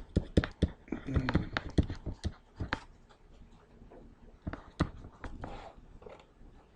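Irregular light taps and clicks, a quick cluster in the first three seconds and a few more later, with faint murmuring voices under them.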